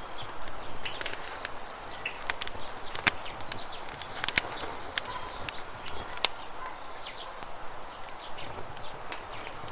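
Wood campfire crackling with frequent irregular sharp pops, over a steady rush of running river water, with short bird chirps here and there.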